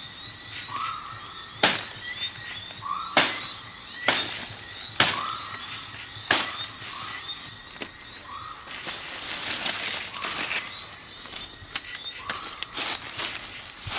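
A bird calling over and over with short rising chirps, about one a second. Several sharp knocks fall among the calls, and a stretch of rustling comes about two-thirds of the way through.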